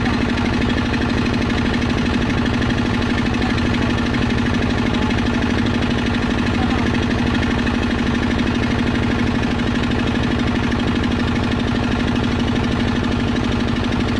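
A boat's engine running steadily with a fast, even chugging pulse and a strong steady hum.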